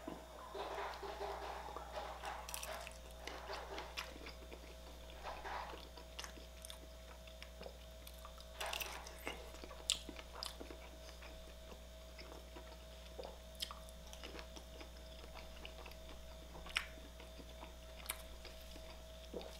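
Close-miked chewing of a crispy, browned breakfast sausage dipped in ketchup, with wet mouth smacks and sharp clicks scattered throughout, over a faint steady hum.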